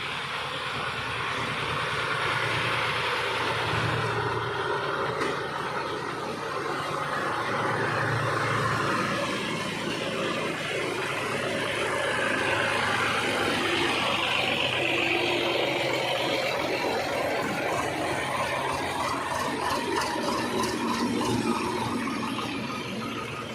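Tractor engine running steadily, a continuous low engine hum with noise above it.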